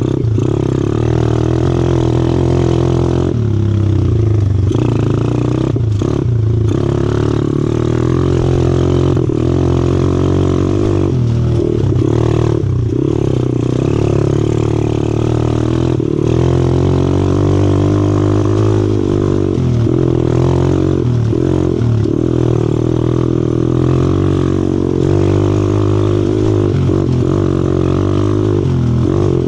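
125cc four-stroke pit bike engine running steadily under way on a trail ride, its pitch rising and falling a little with the throttle.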